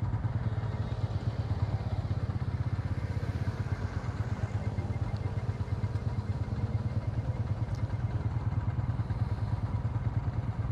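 Motorcycle engine running steadily, a low pulsing note with no revving.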